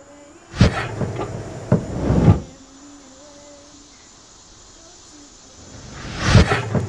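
Two loud rustling, swishing bursts: the first lasts a little under two seconds with a few sharper knocks in it, and the second, near the end, comes as someone brushes through foliage close by.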